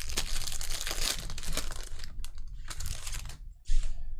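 Foil trading-card pack wrapper being torn open and crinkled, with the rustling heaviest in the first two seconds and two shorter bursts of it later.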